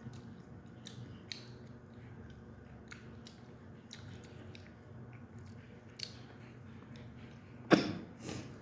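Close-miked mouth sounds of someone chewing chicken: soft wet chewing with scattered lip-smack clicks, and a louder sharp knock about three-quarters of a second from the end.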